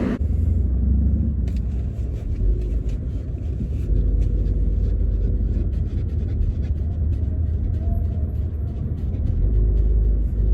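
Low rumble of a car driving, heard from inside the cabin: road and engine noise that swells a few seconds in and again near the end, with scattered small ticks.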